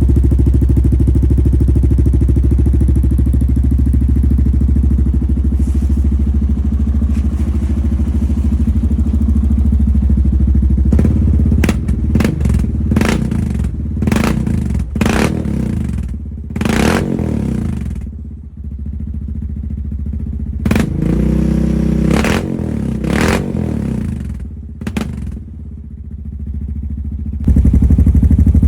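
2022 Honda Rubicon ATV's single-cylinder engine running cold through a full HMF performance exhaust, sputtering because it is still cold. It idles steadily at first, then gets a series of quick throttle blips with the idle sagging low and uneven between them, and runs loud and steady again near the end.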